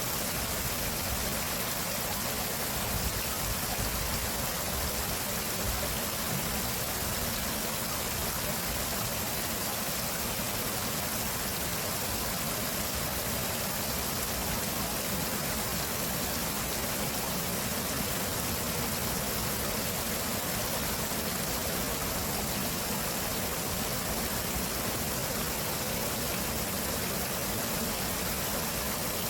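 Steady rush of a stream's flowing water, an even unbroken sound without distinct splashes.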